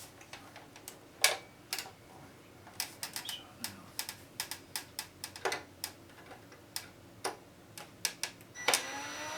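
Irregular clicks and taps of hand tools working on a boombox's plastic cabinet, a few louder sharp clicks among them, about a second in and near the end.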